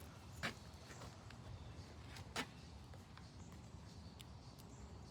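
Two faint sharp clicks about two seconds apart, with a few fainter ticks, over a low steady hum: small handling noises.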